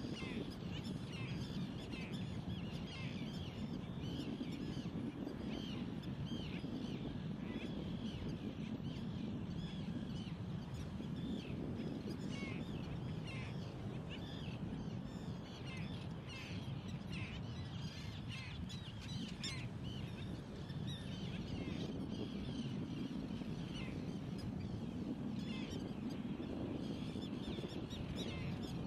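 Many birds calling continuously, short calls overlapping several times a second, over a steady low rush of background noise.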